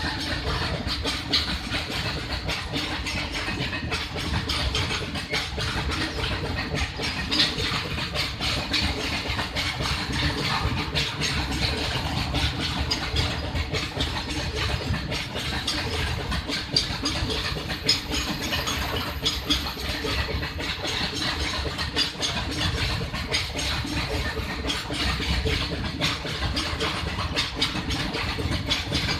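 WAG-12 electric freight locomotive and its train: a steady mechanical rumble with no pauses.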